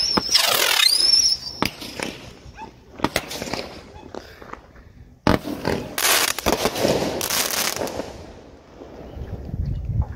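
Fireworks going off: two rising whistles in the first second and a half, scattered sharp cracks, then a loud, hissing, crackling burst about five seconds in that dies away over the next few seconds.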